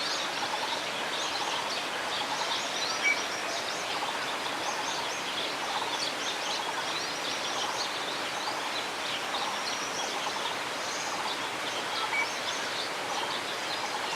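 A flock of small birds calling at once: a dense chatter of many short, high chirps over a steady background hiss.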